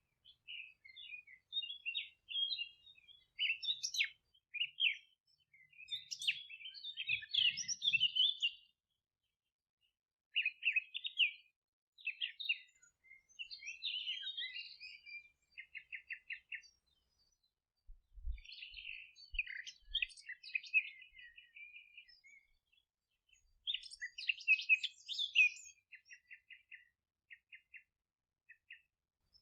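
Songbirds singing in phrases of chirps and trills with short pauses between them, some phrases ending in a quick run of evenly repeated notes.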